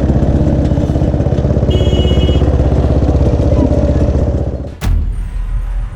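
Motorcycle engine running with a dense, pulsing exhaust note. A brief high tone sounds about two seconds in. Near the end a sharp knock cuts in and the engine drops to a quieter, lower level.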